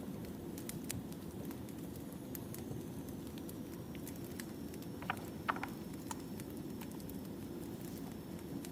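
Wood fire burning: a steady low rumble with scattered crackles and pops, a few sharper pops about five seconds in.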